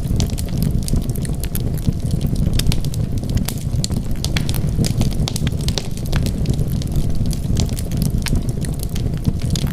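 Wood fire crackling in a fireplace: frequent, irregular sharp pops over a steady low rumble of burning.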